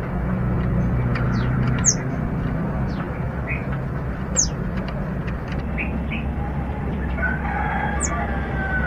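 Kemade bird calling: short, high, sharply falling whistled notes a few seconds apart, with softer chirps between them over a steady low hum. A rooster crows faintly in the background near the end.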